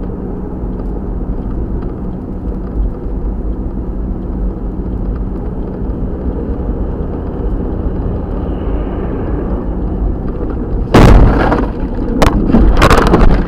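Steady road and engine rumble of a moving car, then about eleven seconds in a loud crash, followed by a cluster of further bangs and crunches as vehicles collide.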